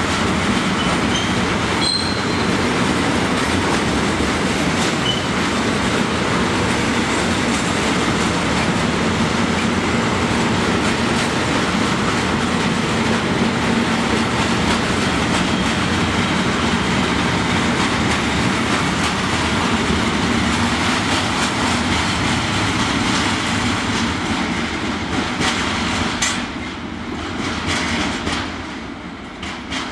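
Departing freight train rolling steadily past, its wagon wheels clicking over the rail joints, with a faint wheel squeal a couple of seconds in. The sound falls away near the end.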